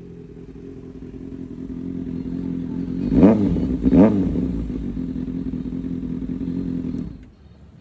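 2025 Kawasaki Ninja ZX-6R's inline-four engine idling through an Arrow full titanium exhaust, blipped twice in quick succession about three seconds in, then settling back to a steady idle. The sound drops away suddenly near the end.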